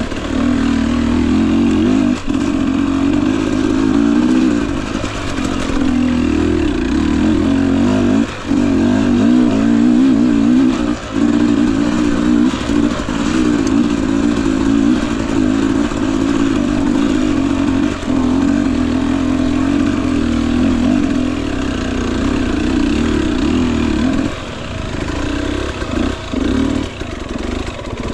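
Husqvarna TE250i fuel-injected two-stroke dirt bike engine running at low, varying revs on a slow trail ride. The throttle is briefly shut about 8 and 11 seconds in and several times near the end.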